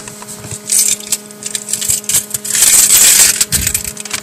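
Rustling and small clicks of someone shifting about and handling things inside the car, with a longer rustle about two and a half seconds in and a faint steady hum underneath.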